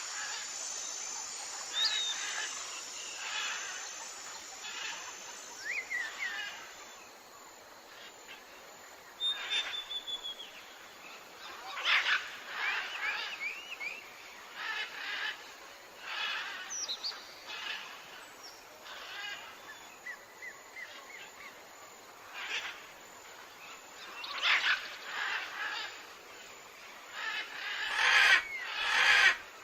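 Jungle ambience of several birds calling at once: scattered chirps, short whistled glides and trills, with the loudest bursts of calls about twelve seconds in and near the end.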